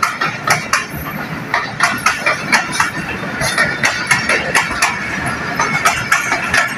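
Passenger train rolling past on the tracks: a steady rumble with a quick, uneven run of clicks from the wheels passing over rail joints.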